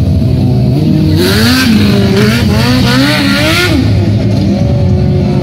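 Stunt motorcycle engine running at idle, then revved hard and blipped up and down for about three seconds before settling back to idle.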